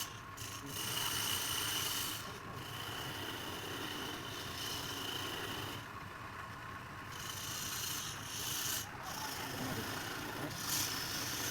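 Turning tool cutting into spinning wood on a lathe: a steady scraping hiss of shavings coming off, with a faint high whine, broken by several short pauses as the tool leaves the wood.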